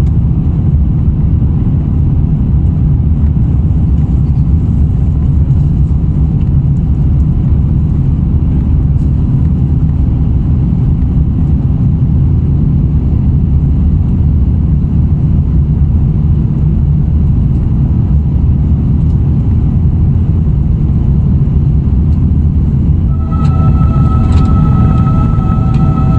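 Airbus A350-900 cabin noise in the climb after take-off: a loud, steady rumble of the Rolls-Royce Trent XWB engines and airflow. About 23 seconds in, a few steady higher tones join the rumble.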